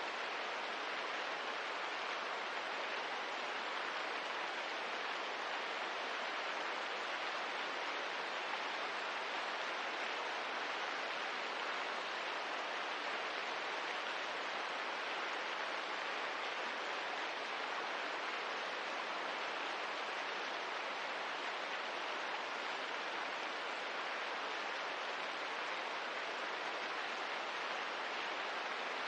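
Steady rain ambience: an even, unbroken hiss with no separate drops, crackles or changes.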